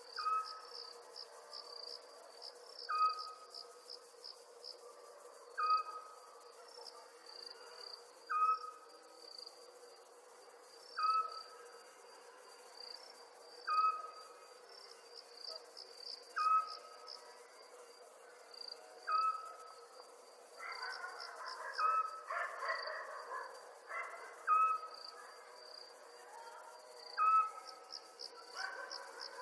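Night ambience of crickets trilling steadily with bursts of quick chirps. A short pitched call repeats about every two and a half to three seconds over a steady low hum, with a louder, noisier stretch about two-thirds of the way through.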